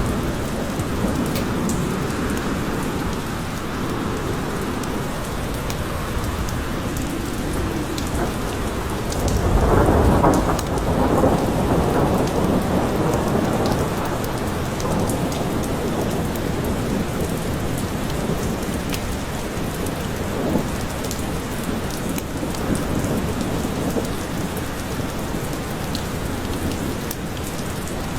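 Steady rain falling in a forest, with scattered sharp drip ticks. A low rumble of thunder swells up about ten seconds in and fades over a couple of seconds.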